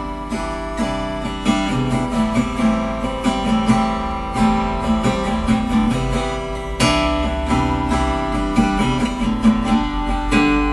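Acoustic guitar strummed in an instrumental passage between sung verses, with regular strokes of full chords.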